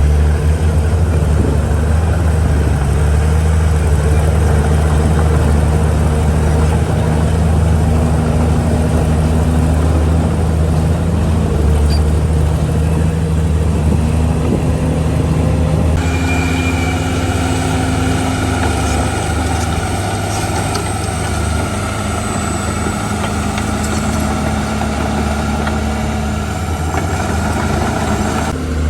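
Heavy diesel earthmoving machinery running steadily, its engine note rising and falling several times as it works under load. About halfway through, the sound changes abruptly.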